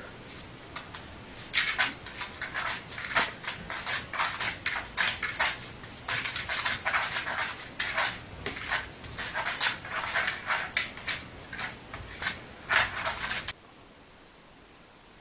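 A dog making quick, irregular, short noisy sounds, a few a second, which stop abruptly near the end.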